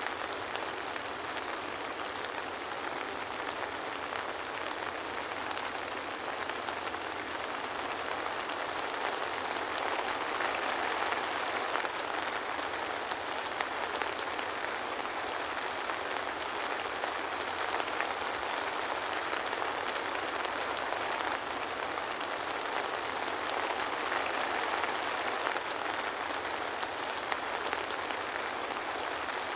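Steady soft rain, a dense even hiss of drops falling on a surface, with no thunder.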